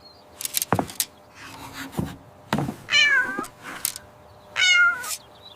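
A cat meows twice, about three seconds and about four and a half seconds in, the first call falling in pitch. Several light knocks and clicks fall between the meows.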